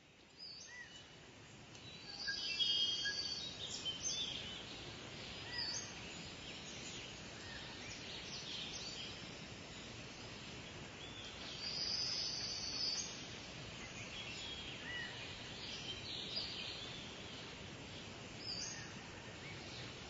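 Outdoor ambience of several wild birds calling over a steady hiss, in short chirps and whistles. The calls are busiest a couple of seconds in and again about twelve seconds in.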